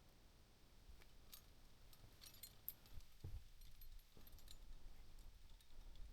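Faint, scattered metallic clinks and jingles of climbing hardware such as carabiners, with a low rumble underneath.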